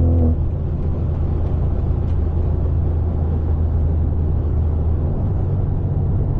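Straight-piped, catless BMW 530 exhaust drone while cruising. The engine note drops as the revs fall right at the start, then holds a steady low drone.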